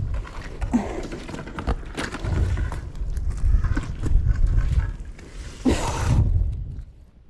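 Heavy rumbling buffeting on the microphone, with scattered knocks and scrapes; it dies away about seven seconds in.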